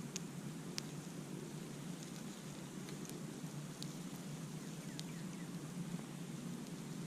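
Campfire burning with a steady low rushing of flames and a handful of sharp, scattered crackles and pops from the burning wood.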